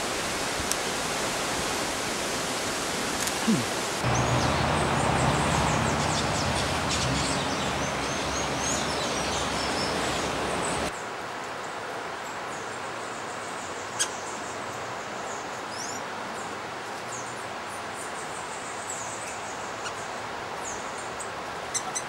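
High, thin chirps of small forest birds over a steady hiss. The background grows louder, with a low hum, about four seconds in, and drops quieter at about eleven seconds. A single sharp click comes about two-thirds of the way through.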